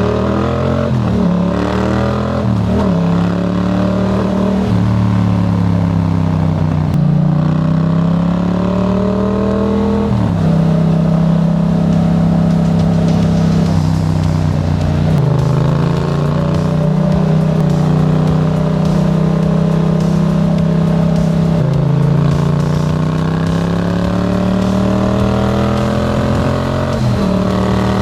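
Yamaha MT-07's parallel-twin engine through a Black Widow aftermarket exhaust, pulling through the gears under hard throttle. The engine note climbs steadily and then drops suddenly at each of several gear changes.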